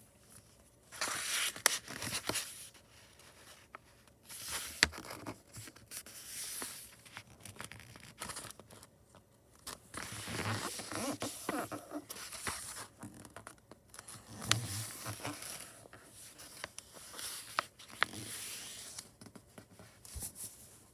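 A sheet of printer paper being folded and creased by hand: irregular crinkling rustles and sliding scrapes, with sharp little snaps and clicks as the paper is pressed flat along the fold.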